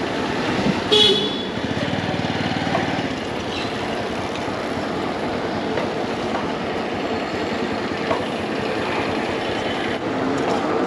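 Steady wind and road noise from riding a fat bike at speed, with a short horn toot about a second in.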